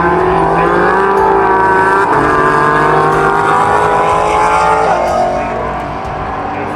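Race car engine running hard on track, its pitch climbing steadily, dropping briefly about two seconds in as it shifts, then climbing again before easing off near the end.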